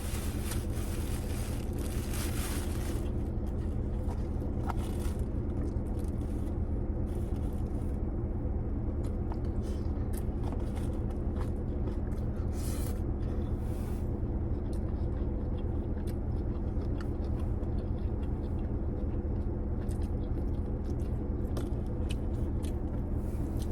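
A person eating takeout food: scattered chewing, crunching and scraping sounds from the food and its container, over a steady low hum.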